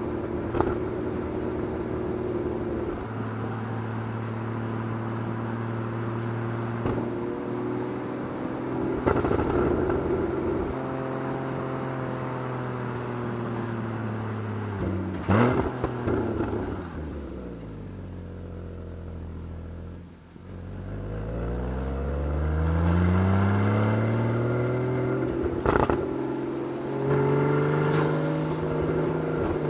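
Porsche 981 Boxster's flat-six engine pulling the car along at a steady note. About halfway through, the engine note falls for several seconds as the car slows, then climbs again as it accelerates. A few sharp clicks sound along the way.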